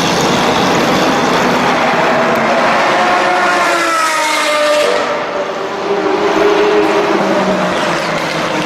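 Supercar engine and exhaust, loud, accelerating past. The engine note climbs for a couple of seconds, drops briefly about five seconds in as at a gear change, then carries on at a lower pitch.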